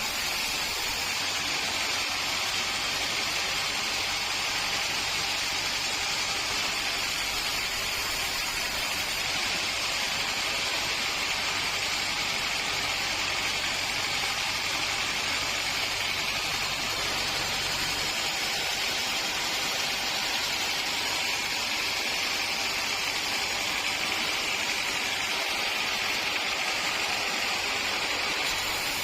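Sawmill machinery running with a steady, unbroken hiss, unchanging in level.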